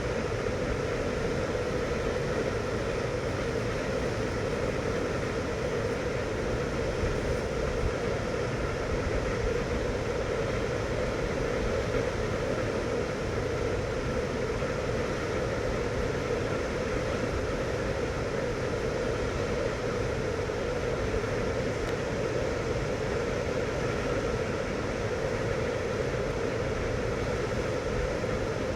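Steady rushing of a fast-flowing river, an unbroken noise with no single events.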